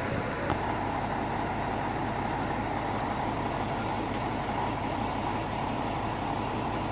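Steady road traffic noise with a low hum underneath, and no sharp bangs.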